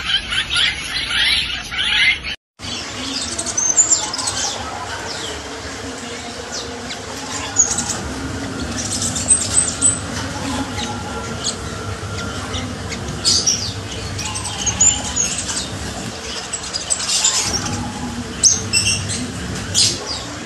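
Jalak rio-rio starlings chirping and squawking, many short sharp calls overlapping, with a brief dropout about two and a half seconds in.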